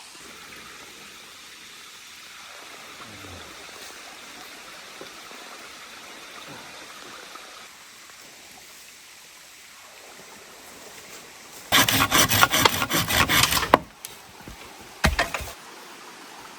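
Saw cutting bamboo: a quick run of rapid back-and-forth strokes lasting about two seconds, then a brief second burst of strokes, over a steady background hiss.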